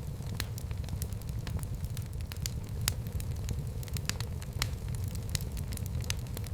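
Fire in a fireplace crackling, with frequent sharp, irregular pops over a steady low rumble.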